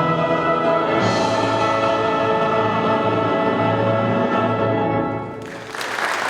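A choir and orchestra hold the closing chords of a sacred piece, moving to a new, lower chord about a second in. The final chord releases and applause breaks out near the end.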